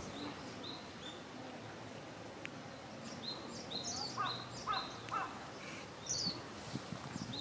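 Small birds calling in short, high chirps that repeat in quick series. Around the middle more calls overlap, including some with a wider pitch range.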